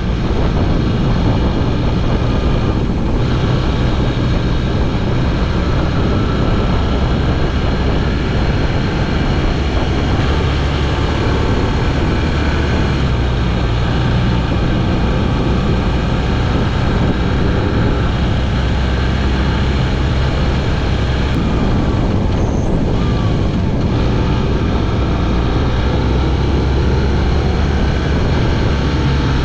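BMW R1200 GS Adventure motorcycle's flat-twin engine running steadily while riding, under heavy wind noise.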